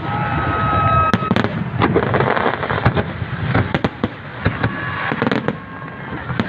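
Fireworks display: many bangs and crackles in quick succession over a continuous rumble, with a steady high whistle in the first second.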